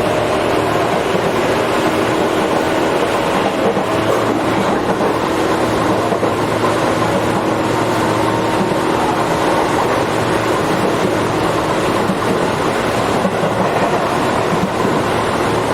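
Tobu 8000 series electric train running between stations, heard from inside the car: a steady rumble of wheels on rail with a faint motor and gear hum underneath.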